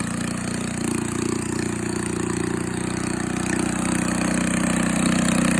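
Briggs & Stratton 3 hp single-cylinder engine driving a small generator, running steadily after a cold start, getting a little louder in the last second or so.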